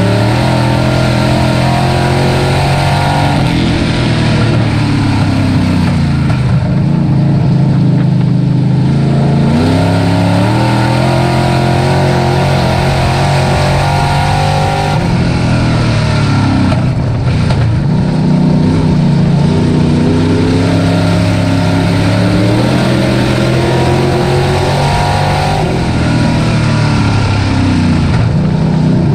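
Dirt-track race truck engine running hard, its revs dropping and climbing back up again and again through the laps.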